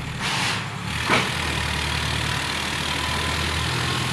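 A vehicle engine running steadily with a low rumble, with a short rush of noise just after the start and a single sharp knock about a second in.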